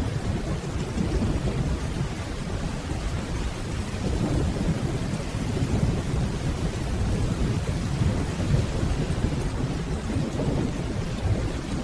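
Steady rainfall with low, deep rolling thunder rumbling underneath, an even storm sound with no sharp claps.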